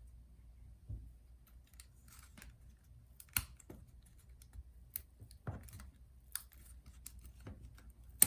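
Scattered small clicks and snaps, about a dozen at irregular intervals, as the glued-in keyboard of a 2016–2017 MacBook Pro is pried out of its top case piece by piece, its plastic parts breaking apart.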